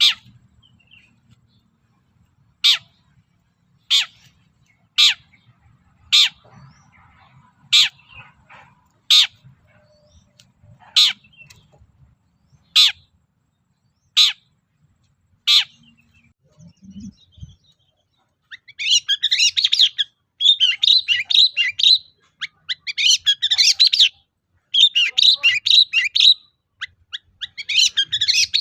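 Long-tailed shrike (cendet) calling: a run of single sharp, harsh notes about a second apart, then after a short pause a fast, dense chattering song in bursts for the last ten seconds.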